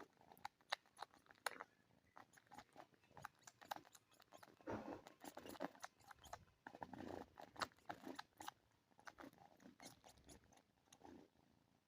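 Kitten suckling and nibbling on a person's hand, making quick irregular little sucking clicks and chewing smacks.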